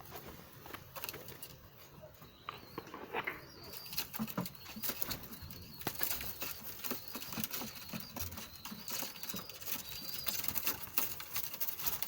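Pigeons moving about, with wing flaps and many small clicks and scuffles that grow busier from about four seconds in.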